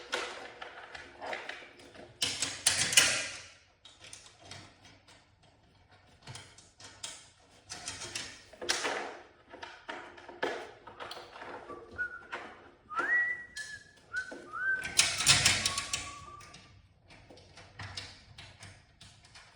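Irregular clanks, clicks and knocks of hand tools and metal parts during garage door spring work. A little past the middle, a person whistles a few short notes.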